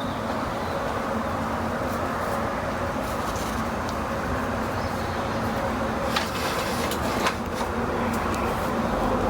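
A steady mechanical hum with a couple of faint clicks about six and seven seconds in.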